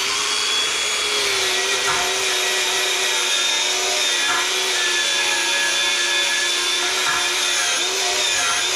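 A motor running steadily: a constant whine over a broad hiss, its pitch dipping briefly about eight seconds in.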